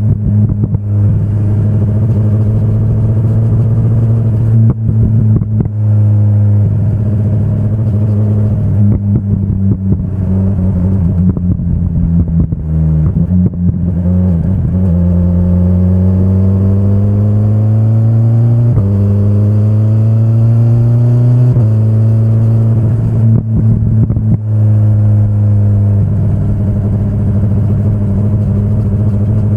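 2025 BMW S1000RR's inline-four engine pulling along under way, with a few brief throttle dips in the first half. From about the middle the pitch climbs under acceleration and drops sharply twice as it shifts up through the gears, then holds steady.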